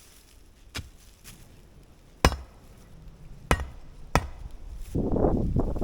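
Sharp single blows of a hand tool striking, four of them spaced unevenly, the second the loudest. About five seconds in, a louder, rough, continuous noise takes over.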